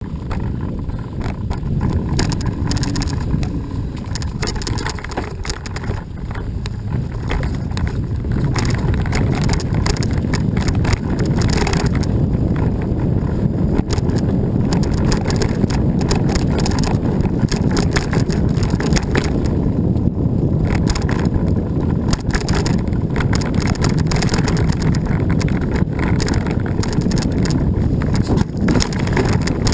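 Mountain bike being ridden over a trail: a steady low rumble of wind and tyre noise on the microphone, with frequent short knocks and rattles from the bike jolting over bumps.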